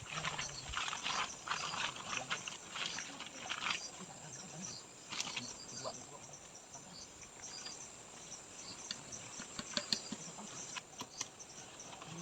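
Forest insects chirping steadily in a high-pitched chorus, with a few louder noisy bursts in the first four seconds and some sharp clicks near the end.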